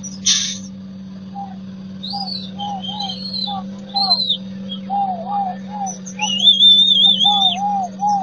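Birds calling and singing: repeated short, clear notes with higher whistled phrases, the loudest a warbling whistle held for about a second near the end. Under them runs a steady low hum, and a short hiss comes right at the start.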